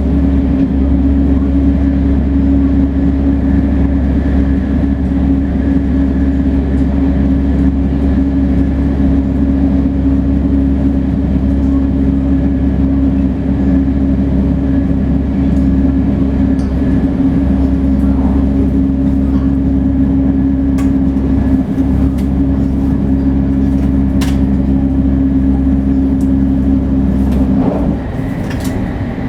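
Shinkansen 500 series train running at speed, with a steady low hum and rail and running noise. Near the end the hum cuts out and the sound gets quieter.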